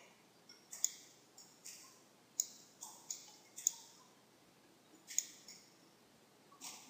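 Computer mouse clicking: a dozen or so short, sharp clicks at an irregular pace.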